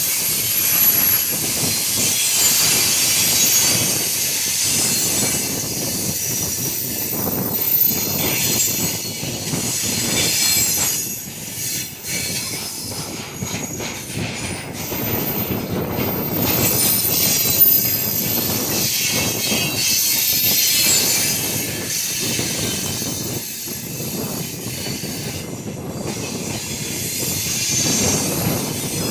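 Freight train wagons rolling past at speed, the wheels clattering over the rail joints with a steady rumble and a thin, high wheel squeal.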